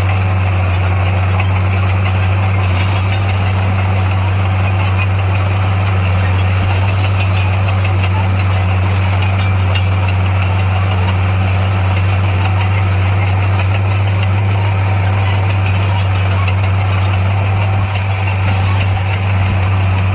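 Diesel engine of heavy earthmoving equipment running steadily, a constant low hum.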